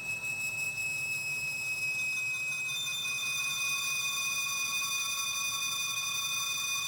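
Lathe cutting tool squealing as it bores into 304L stainless steel: a steady, high-pitched screech of several tones, with more tones joining and growing louder about three seconds in. It is like nails on the chalkboard times 11, over the faint hum of the running lathe.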